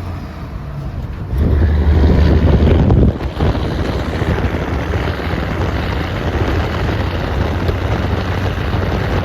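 Foden lorry's Caterpillar 3406B diesel running through its custom straight-through stainless exhaust, with a deep low drone. The engine note swells for a couple of seconds about a second and a half in, then settles to a steady rumble, with wind noise on the microphone.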